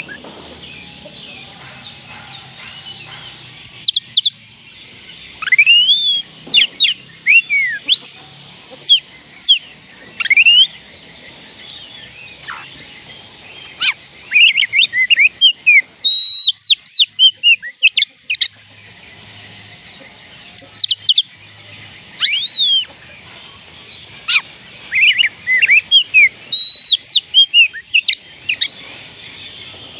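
Oriental magpie robin singing: rapid series of loud, clear whistled notes that slide up and down, delivered in bursts with short pauses between phrases.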